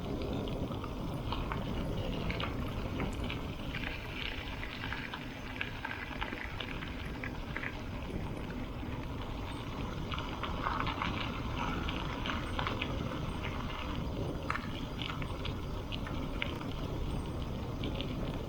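Bicycle tyres rolling on a dirt and gravel road: a steady low rumble with scattered crackles and ticks of small stones under the tyres.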